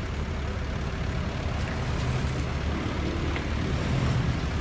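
Engine running at low revs as an SUV creeps up the tilted steel bed of a flatbed tow truck, a steady low hum that swells slightly a couple of times, with street traffic around it.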